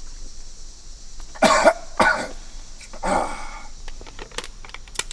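A person coughing: two short coughs about a second and a half in, then a longer one a second later.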